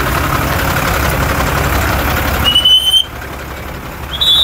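Street traffic running steadily, with two short shrill tones cutting through, one about two and a half seconds in and a second near the end.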